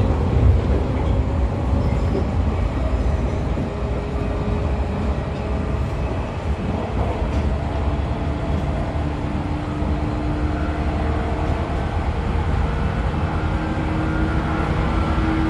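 A JR 113-series electric train, heard aboard a motor car with MT54 DC traction motors, runs along with a steady rumble of wheels on rail. A faint motor and gear whine comes in during the second half, its pitch stepping slightly.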